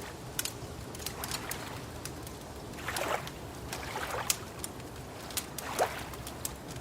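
Wood fire crackling, with frequent sharp pops scattered throughout over a steady low rumble. Three soft swishes of lapping water rise and fall about three, four and six seconds in.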